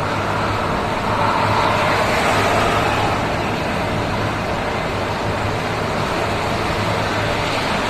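Steady road noise of a vehicle driving, an even rushing sound with a low engine hum underneath, swelling slightly about a second in.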